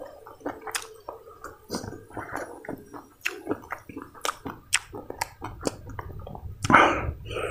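A person chewing crunchy food close to the microphone: irregular crunches and wet mouth clicks.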